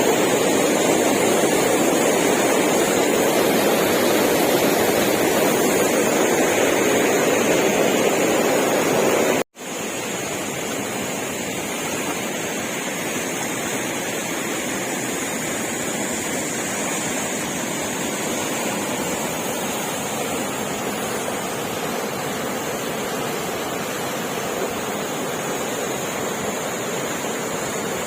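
Waterfall rushing steadily. The sound cuts out for an instant about nine seconds in and comes back a little quieter.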